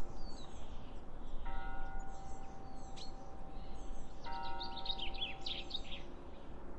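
Outdoor ambience: birds chirping over a low steady rumble. A steady hum of several tones comes in about a second and a half in, stops, and returns after about four seconds.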